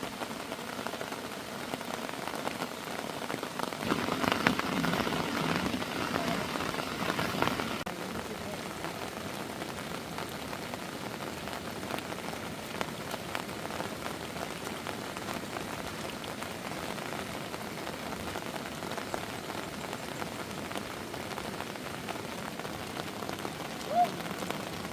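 Heavy rain falling steadily, louder for a few seconds about four seconds in, with one brief short tone near the end.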